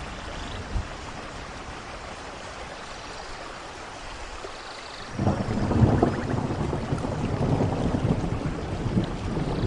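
Steady rainfall, with a low roll of thunder that starts suddenly about five seconds in and keeps rumbling.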